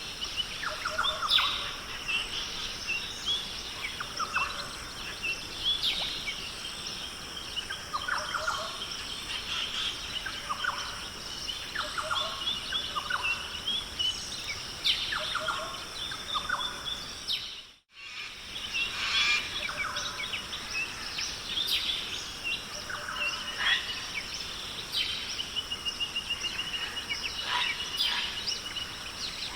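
Forest ambience: many birds calling in short chirps, whistles and a trill over a steady high-pitched drone. The sound drops out briefly about 18 seconds in.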